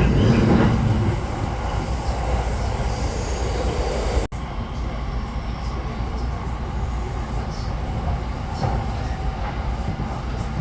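Railway train running, a steady low rumble, with a louder stretch in the first second and a momentary dropout about four seconds in.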